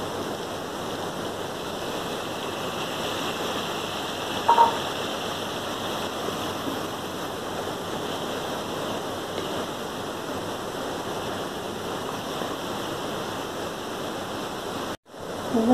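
Mutton and tomato-purée masala sizzling steadily in hot oil in a karahi as it is fried and stirred with a wooden spoon. One brief louder sound about four and a half seconds in, and the sound cuts out for a moment near the end.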